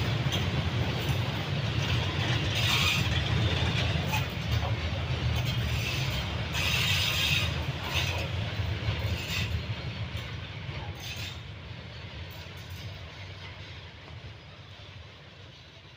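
Train of fuel tank wagons rolling by on the rails: a steady low rumble of wheels on track, with bursts of metallic clatter about three and seven seconds in. It fades away steadily as the train moves off.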